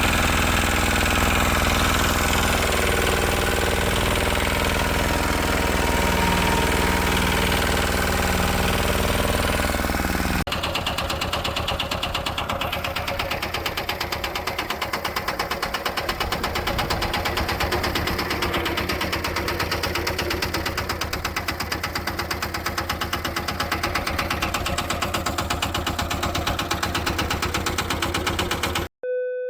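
Iseki KD70 air-cooled diesel engine running steadily with a rapid, even knocking firing rhythm, in two takes joined by a cut about ten seconds in.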